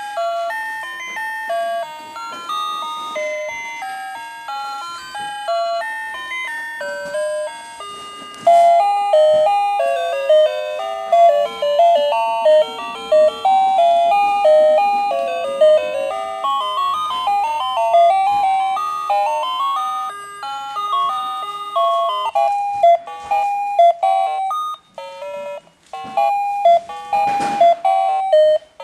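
Anpanman toy refrigerator's electronic sound chip playing a simple beeping melody, then a run of short repeated beeps in the last several seconds.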